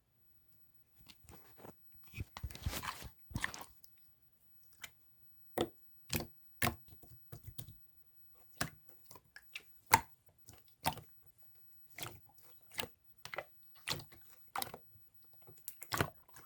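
Clear slime being squeezed and pressed by hand, giving a stretch of wet crackling about two seconds in, then sharp irregular pops and clicks, roughly one or two a second.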